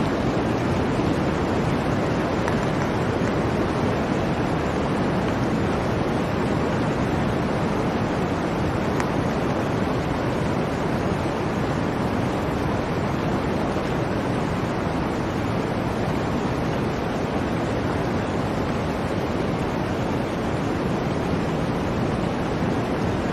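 Blizzard wind blowing as a steady, even rush with no gusts or breaks.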